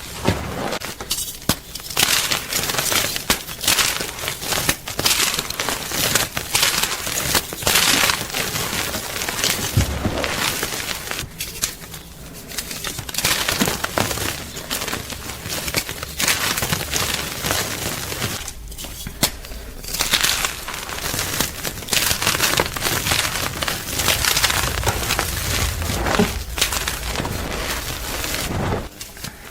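Blocks of gym chalk crunching and crumbling close to the microphone: a dense, continuous crackle of many small snaps, with a few brief pauses.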